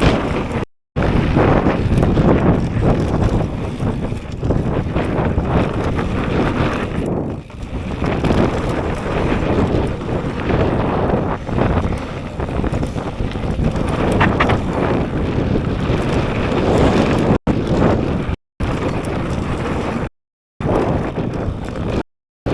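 Strong wind buffeting an action camera's microphone during a mountain bike ride, a loud unsteady rumble that rises and falls with the gusts, mixed with the bike's tyre and trail noise. The sound drops out to silence for brief moments a few times.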